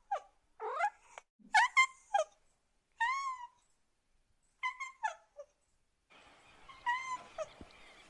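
Domestic cats meowing: a string of short meows, some rising and some arching in pitch, with gaps between them. From about six seconds in, a faint steady hiss lies behind the calls.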